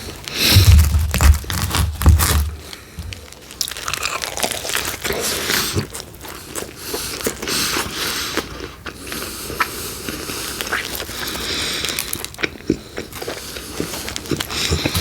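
Close-miked eating of pepperoni pizza: biting and chewing with crunching and small mouth clicks. The loudest, heaviest bites come in the first two or three seconds, then steady chewing follows.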